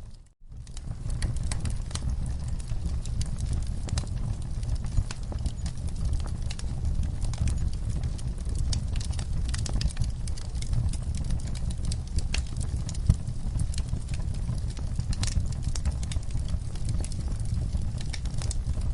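Wood fire burning in a fireplace: a steady low rumble of flames with irregular crackles and pops of the burning logs. The sound drops out briefly just after the start, then resumes.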